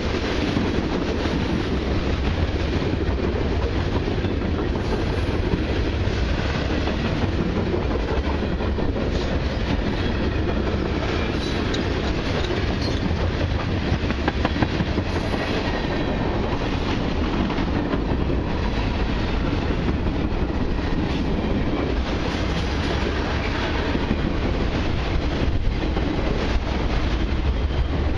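Freight train cars (gondolas, tank cars and autorack cars) rolling past close by: a steady rumble of steel wheels on rail with a continuous clickety-clack of wheels over the rail joints.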